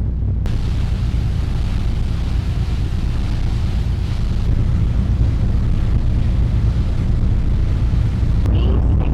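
A car ferry's engines running with a steady low drone, with wind noise on the microphone.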